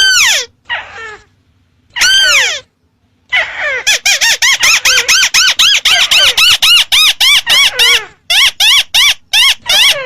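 Ruddy-breasted crake call played back as a hunting lure: a rapid run of loud, arched notes at about five a second, after a few short, broken phrases and a brief pause near the end.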